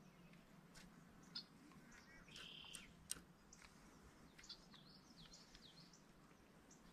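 Faint birds chirping: scattered short high chirps and a longer call about two and a half seconds in, with a couple of brief sharp clicks.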